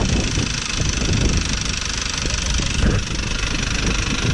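A fishing boat's engine running steadily under way, a low rumble over an even hiss.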